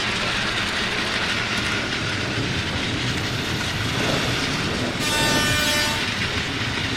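Battery-powered Plarail toy trains running on plastic track, a steady whirring rattle. About five seconds in a held tone with many overtones sounds for about a second.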